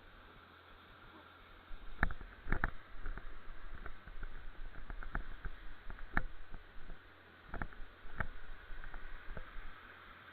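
Irregular sharp knocks and rattles, a few clustered together at times with short lulls between, over a faint steady low hum.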